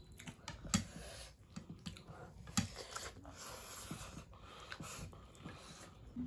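A person chewing food close to the microphone, with irregular small mouth clicks and smacks; two louder clicks come about one second and two and a half seconds in.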